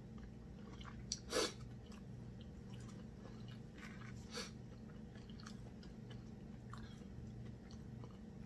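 Close-up mouth sounds of eating a sauce-covered seafood boil shrimp: soft chewing and wet lip smacks, with scattered small clicks and one louder smack about a second and a half in.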